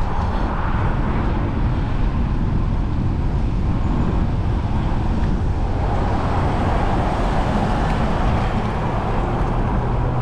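Steady road traffic noise heard from a moving bike, with a continuous low rumble and no distinct events.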